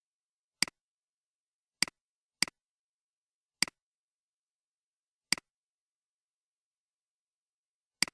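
Computer mouse button clicking six times at uneven intervals, each a sharp press followed at once by a softer release click.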